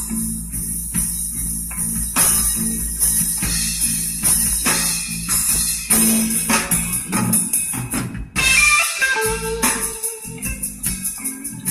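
Instrumental passage of a blues song played back through a car audio system with 3-way speakers and subwoofers: a steady drum-kit beat over a heavy bass line, with a melodic line coming in near the end.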